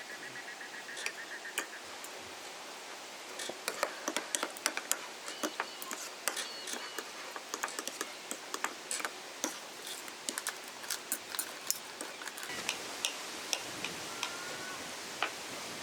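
Campfire crackling, with irregular sharp snaps that come thickest through the middle. A bird chirps briefly near the end.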